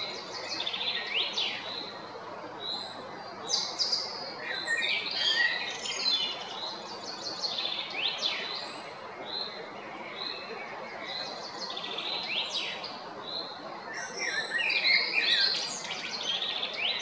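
Songbirds singing: short, quick, twittering phrases with rising sweeps, repeated every second or two and sometimes overlapping, over a steady background hiss.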